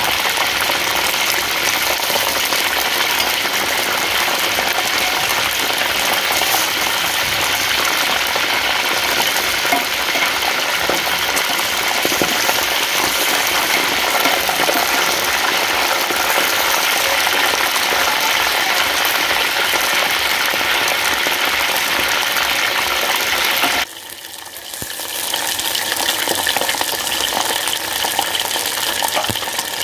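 Chicken drumsticks deep-frying in a pot of hot oil: a steady, dense sizzle and crackle. It drops away suddenly about 24 seconds in, then comes back a little quieter.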